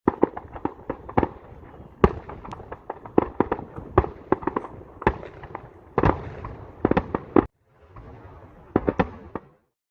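Aerial fireworks going off in a rapid barrage: dozens of sharp bangs and cracks in quick succession, with a rumbling echo between them. The sound drops out abruptly about seven and a half seconds in, comes back fainter with a few more bangs, then stops.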